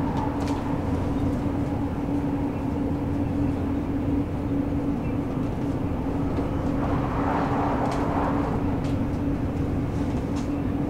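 Commuter electric train running at speed, heard from inside the carriage: a steady rumble of wheels on rail under a constant motor hum. A brief swell of rushing noise comes about seven seconds in.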